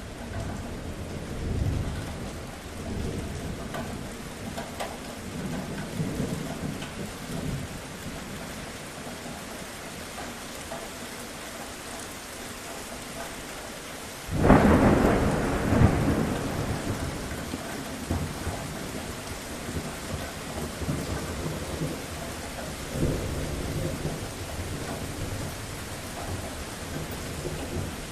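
Steady rain falling, with low rumbles of thunder. About halfway through, a sudden loud thunderclap rolls away over a couple of seconds, and a smaller rumble follows a few seconds before the end.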